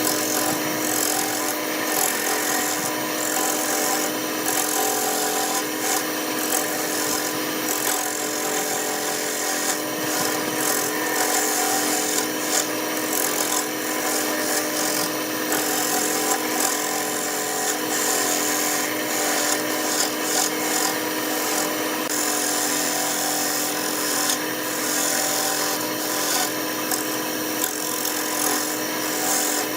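Wood lathe running with a steady motor hum while a turning tool cuts into the spinning wood, a scraping cut that comes and goes in short stretches.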